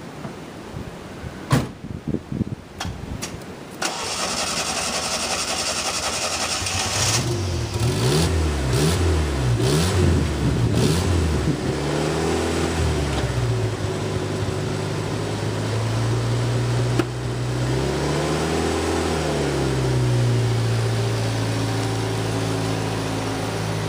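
A 1988 Yugo GV's small four-cylinder engine being started: a few clicks, a few seconds of cranking, then it catches. It is revved up and down several times, settles into a steady idle, and is revved once more before idling on.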